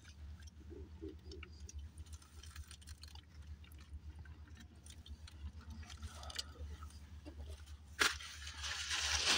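A person chewing french fries close to the microphone, with small soft mouth clicks over a steady low hum. A sharp click comes near the end, followed by a louder stretch of noise.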